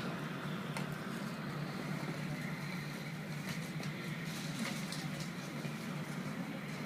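Steady low hum and rushing noise of an Airbus A321 cabin, with a few faint clicks.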